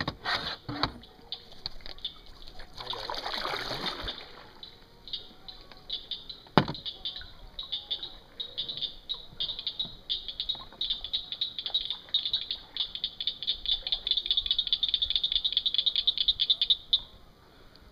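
Frogs calling in rapid clicking trills that grow denser and stop suddenly near the end. A single sharp knock about six and a half seconds in.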